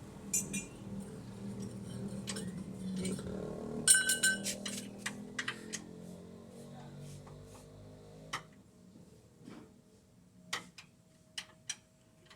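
Metal tools and parts clinking and tapping in scattered sharp clicks. One loud ringing metallic clink comes about four seconds in. Under them runs a low background murmur that stops about eight seconds in.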